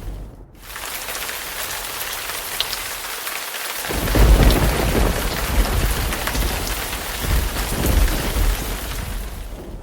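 Steady heavy rain hissing, and about four seconds in a long rumble of thunder breaks in, swelling again near the end before fading under the rain.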